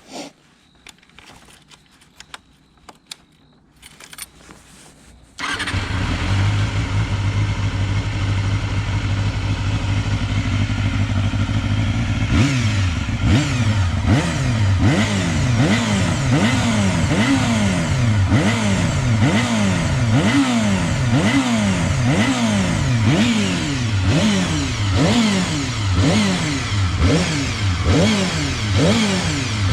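Honda CBR250RR (MC22) inline-four through a Beet Nassert slip-on muffler: after a few faint clicks the engine starts about five seconds in and settles to idle. From about twelve seconds it is revved over and over, roughly once a second, each rev climbing sharply and dropping back to idle.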